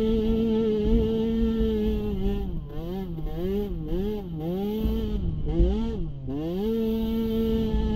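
Small youth racing ATV engine held at high revs, then revving up and down in quick surges several times, with a brief dip past the middle before it climbs back to a steady high pitch near the end.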